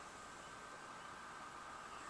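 Steady low hiss with a faint steady high hum: background room tone with no distinct event.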